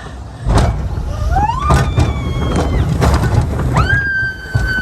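Riders screaming as they drop down a water-ride chute, over a loud low rushing rumble of the descent. One scream rises in pitch about a second and a half in, and a long high scream starts near the end.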